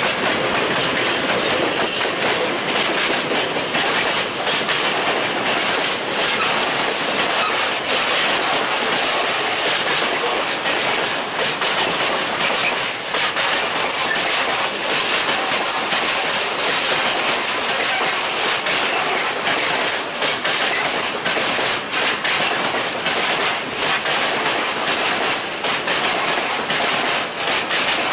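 Freight train of open coal wagons, hauled by a PKP Cargo ET22 electric locomotive, passing close by, its wheels clattering over the rail joints in a steady stream of clicks.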